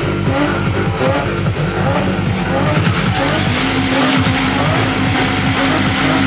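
Car engines revving up and down; from about three and a half seconds in, one engine holds a steady note.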